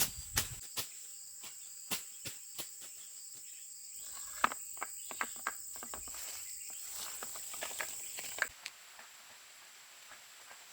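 Insects, such as crickets or cicadas, making a steady high-pitched drone that cuts off suddenly about eight and a half seconds in. Sharp clicks and crackles come and go throughout.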